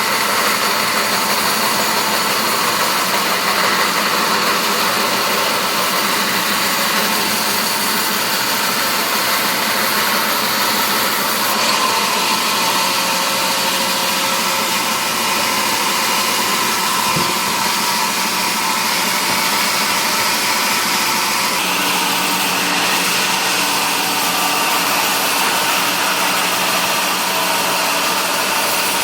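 Sawmill machinery running steadily with a loud, even noise, with a slight change in tone about two-thirds of the way through.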